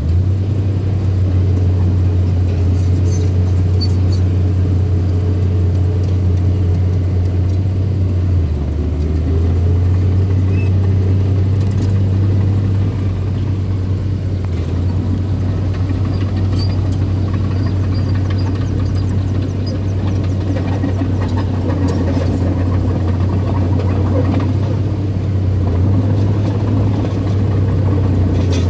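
Bulldozer engine running steadily under work, a loud low drone. Its pitch dips briefly about eight seconds in, then recovers.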